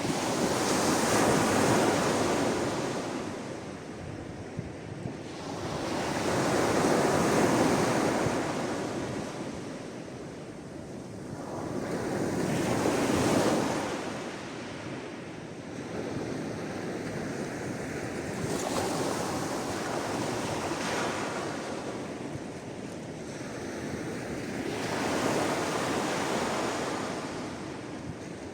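Sea waves washing onto the shore, each wave swelling and fading, about one every five to six seconds.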